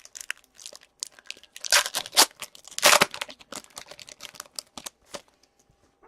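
Foil wrapper of a hockey card pack crinkling as it is torn and handled, with the loudest rustles about two and three seconds in, then a few soft clicks of cards being handled.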